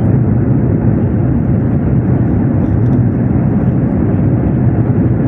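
Steady engine and airflow roar inside the cabin of a climbing Airbus A320 airliner, a deep even rumble without changes.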